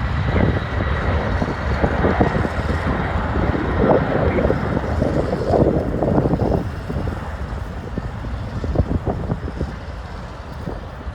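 Gusty wind buffeting the microphone over the low rumble of jet aircraft at the airfield, the gusts strongest in the first seven seconds and then easing.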